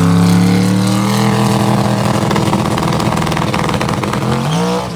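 Chevrolet S10 pickup's engine at wide-open throttle on a drag-strip pass: a loud, steady drone that climbs in pitch briefly near the end.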